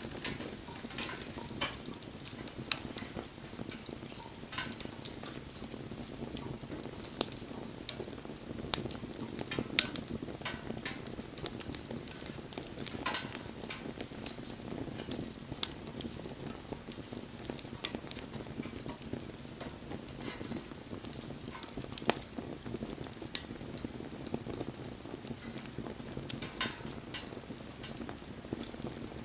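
Wood bonfire burning steadily, crackling with irregular sharp pops over a low, even rush of flame; a few pops, about 3, 7, 9 and 22 seconds in, are louder than the rest.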